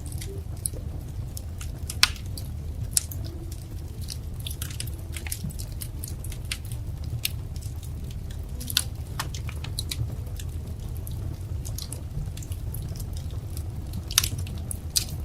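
Wood fire crackling: irregular sharp pops and snaps over a low steady rumble, with a few louder pops about two and three seconds in and near the end.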